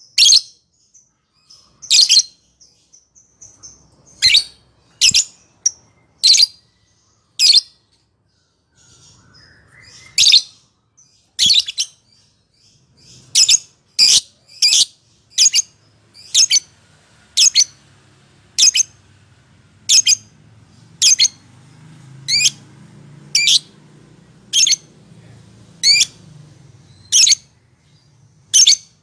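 Lovebird giving short, shrill chirping calls one at a time, roughly one a second, with a faint low hum behind them.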